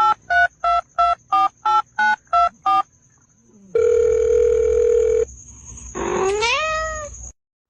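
Telephone keypad dialing tones: nine quick two-note beeps at about three a second, followed by a steady tone lasting about a second and a half. Near the end comes a short, rising, voice-like call.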